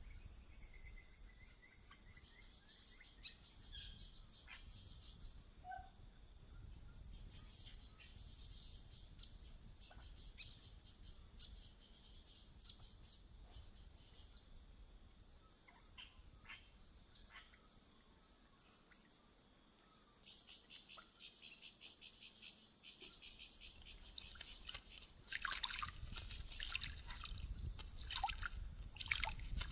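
Wild birds chirping continuously in rapid, high-pitched repeated notes, with a few louder calls near the end.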